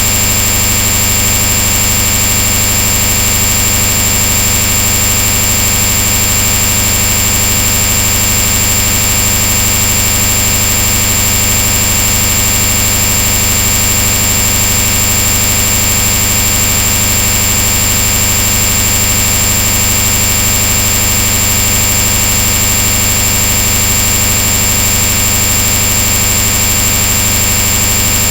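A loud, unchanging hiss with a steady high-pitched whine over it and a low hum beneath.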